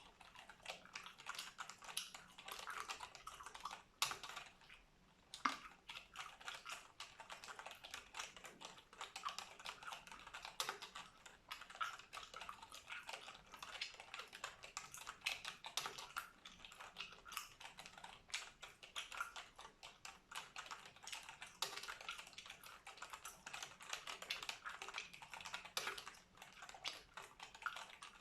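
Computer keyboard being typed on in a quick, continuous run of key clicks, with a short pause about four seconds in.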